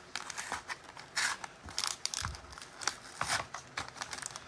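A sealed trading-card box being opened by hand: short, irregular crinkles and scrapes of plastic wrap and cardboard, with a cutting sound among them.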